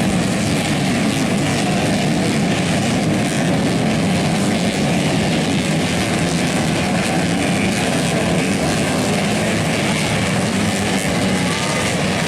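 Several modified underbone racing motorcycles of up to 250 cc running together, their engines blending into one loud, steady noise.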